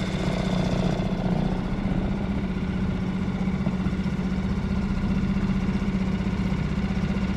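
Boat's outboard motor running at a steady low speed, an even, unbroken engine hum.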